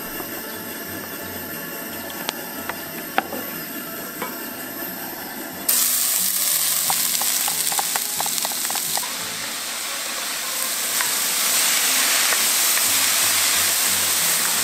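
Food sizzling in a hot 10-inch cast-iron Dutch oven. A quieter steady hiss runs first; about six seconds in, the sizzling starts suddenly and much louder and carries on, with a few light clicks from stirring.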